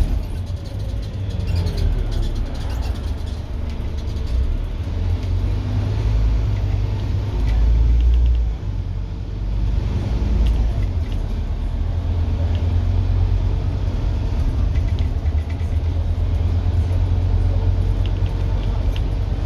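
Scania N230UD double-decker bus's five-cylinder diesel engine and drivetrain heard from on board, a loud, deep rumble as the bus is driven hard. The level drops briefly just after eight seconds in, then the rumble carries on.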